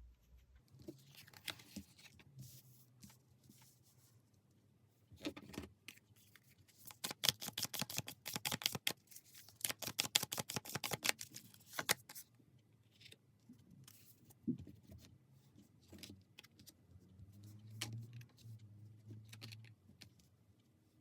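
Tarot cards being handled and shuffled by hand: scattered soft card rustles and taps, with a dense run of rapid card clicks in the middle.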